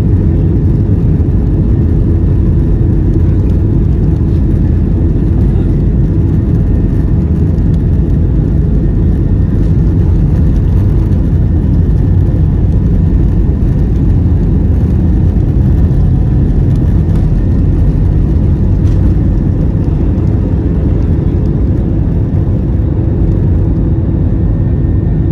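Airbus A321-200 cabin noise during take-off and climb: a loud, steady jet-engine and airflow rumble, heaviest in the low range, with a few faint steady tones over it.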